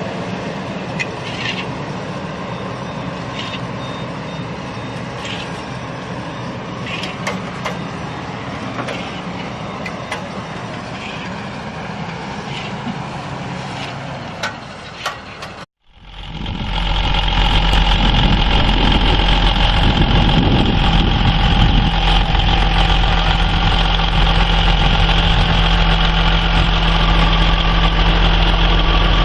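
A heavy vehicle's engine running steadily with scattered clicks and knocks. About halfway through it cuts off abruptly, and a louder engine starts up, running with a deep rumble under a steady high whine.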